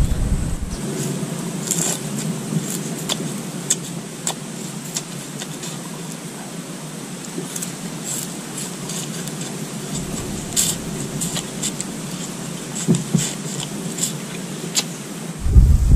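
A person chewing a piece of raw sugarcane: irregular crisp crunches and cracks as the fibrous stalk is bitten and chewed.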